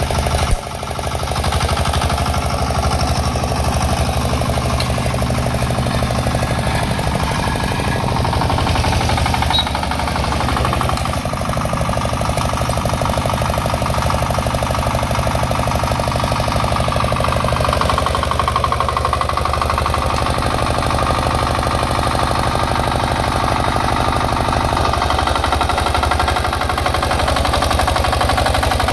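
6 hp Field Marshall single-cylinder diesel engine running steadily, with a rapid, even knocking beat.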